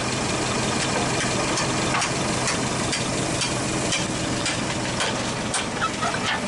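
Engine idling steadily, with about ten sharp metallic knocks scattered irregularly over it: a hammer knocking a mounting bolt through while the crane is fitted to the truck.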